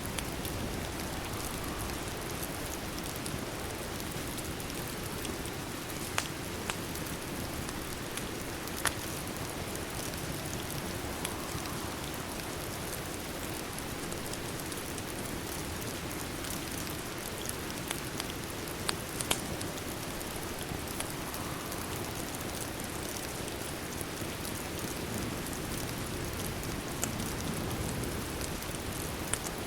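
Steady rain, with a handful of sharp, brief fireplace crackles scattered through it.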